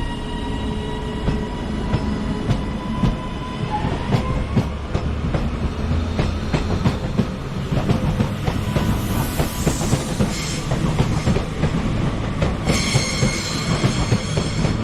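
Train moving through the station, its wheels clattering over rail joints and points in a run of sharp clicks, with a steady whine that rises in pitch about four seconds in. Near the end the wheels set up a high-pitched squeal.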